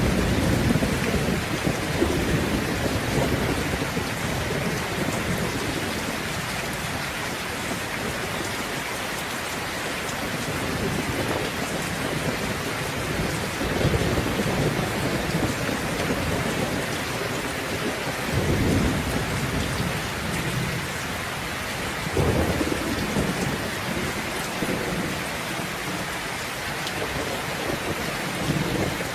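Steady heavy rain falling, with low rolling thunder rumbling in and out, swelling near the start and again at about 14, 18 and 22 seconds in.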